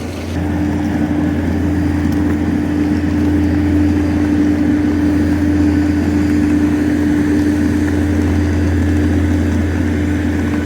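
A loud, steady machine hum with a constant droning tone; it starts and cuts off abruptly.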